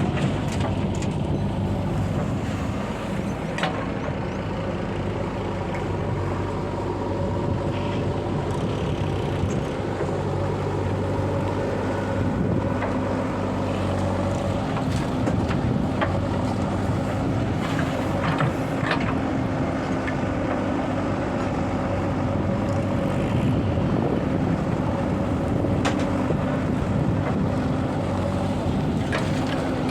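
Heavy diesel machinery running steadily with a low drone, with a few short sharp knocks over it.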